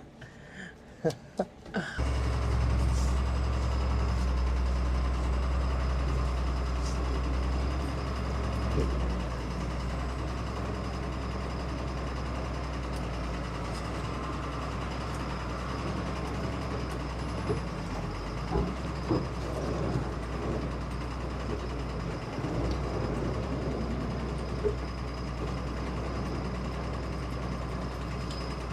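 A couple of sharp clicks, then about two seconds in a truck engine comes in loud and runs steadily with a deep, even low note as the tow truck pulls the deuce and a half to try to pull-start it.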